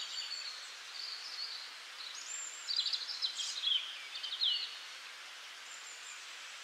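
Small birds chirping faintly over a steady hiss, the calls stopping about two-thirds of the way through.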